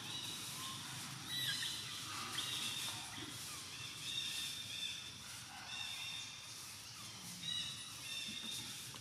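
Birds calling: a repeated series of high, steady whistled notes, each about half a second to a second long, over outdoor background noise.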